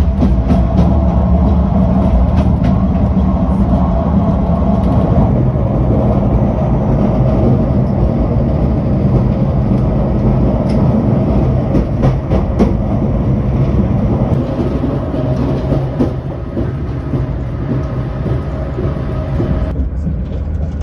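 Afrosiyob high-speed train running at speed: a steady rumble of wheels and rails with scattered faint clicks.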